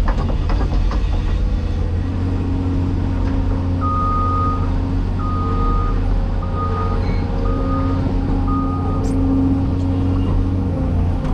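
Heavy diesel construction equipment running with a steady low rumble, while a backup alarm beeps five times, about once a second, in the middle stretch. A few sharp knocks come right at the start.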